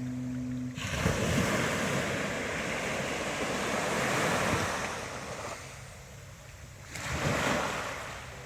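Ocean surf: a wave breaks about a second in, its wash swelling and slowly dying away, then a second, shorter wave breaks near the end. A steady low hum is heard before the first wave.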